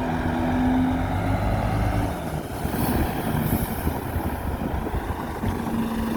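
Heavy diesel earthmoving machinery running: a steady low rumble with an engine note that shifts in pitch a few times.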